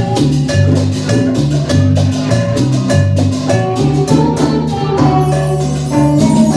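Live cumbia-style band music without vocals: bass line and sustained melody notes over a steady beat of regular percussion strokes.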